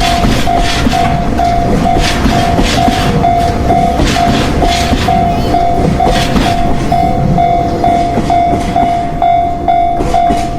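Motorised Thomas & Friends toy train running on its track: a steady motor whir with many small clicks, and a tone that pulses about twice a second.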